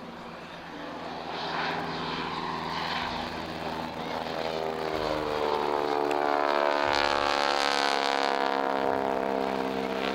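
Propeller-driven piston-engined aircraft flying past, its engine note growing louder and then dropping in pitch as it passes.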